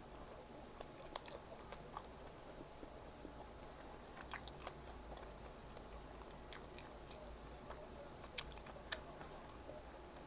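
A person chewing and biting food close to the microphone, with scattered small crisp crunches and wet mouth clicks.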